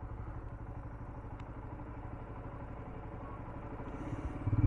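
Royal Enfield Himalayan's 411 cc single-cylinder engine idling with an even low thump, then revving up near the end as the bike pulls away.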